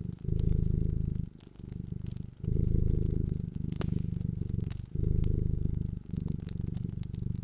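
A cat purring in a steady cycle of louder and softer stretches, each about a second long, over scattered crackles and pops from a wood fire.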